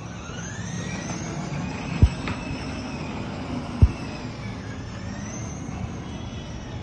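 Electric drive motor of a child's battery-powered ride-on bike whining as it drives, its pitch rising and falling, with two sharp thumps, about two seconds and about four seconds in.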